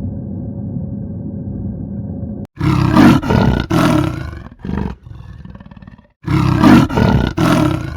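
A steady low rumble, then about two and a half seconds in, a large animal's loud calls in a run of several bursts. The same run of calls repeats near the end.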